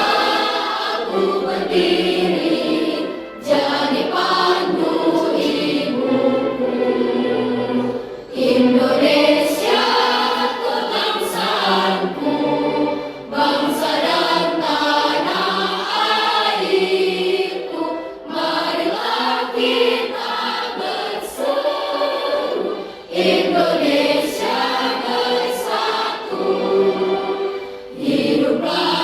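A choir singing a song, in phrases of about five seconds with brief breath pauses between them.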